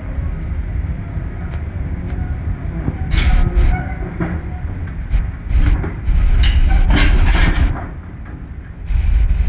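Heavy tracked excavator, a CAT 336, running with a steady low diesel rumble, broken by sharp metallic clanks and squeals about three seconds in and again around six to seven and a half seconds in, like steel tracks and undercarriage moving.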